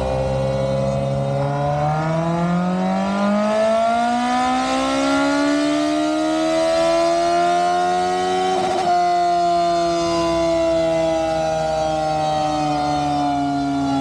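Sportbike engine run on a chassis dyno: its pitch climbs steadily for about nine seconds as it pulls through the revs under load, then the throttle is closed with a brief break and the engine winds down slowly.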